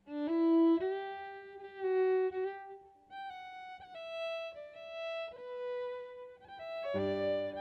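Solo fiddle playing a slow melody of held notes. Other, lower instruments join near the end.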